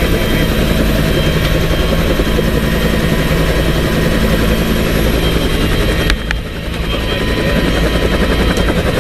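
Rescue helicopter running close by: a steady, loud throb of rotor and engine. The sound drops suddenly about six seconds in with a click, then builds back up.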